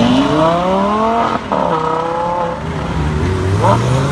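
Lamborghini Gallardo's V10 engine revving as the car pulls away and accelerates. Its pitch climbs, breaks off briefly about a second and a half in, falls away, and climbs again near the end.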